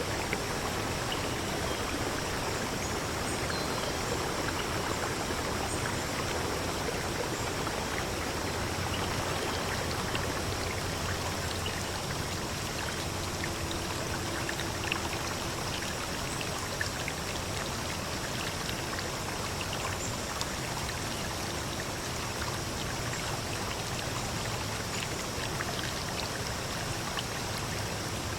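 Steady rushing of a flowing stream, an even wash of running water that does not let up.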